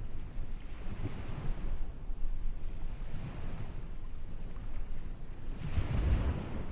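Ocean surf washing onto a beach in repeated swells, the largest near the end, over a low rumble of wind on the microphone.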